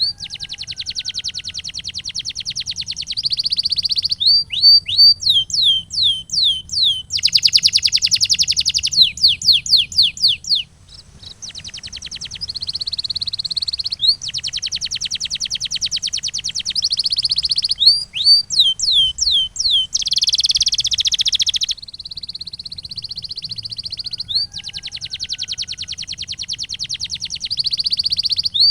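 Male canary singing a long song of fast rolled trills alternating with runs of quick falling whistled notes, one phrase after another, with a brief pause about a third of the way through.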